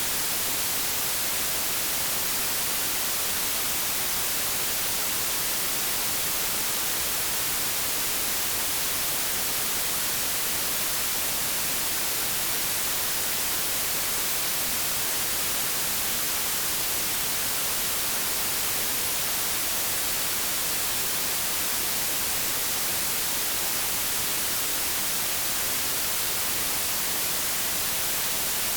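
Steady static hiss, an even white noise that doesn't change, brightest in the treble.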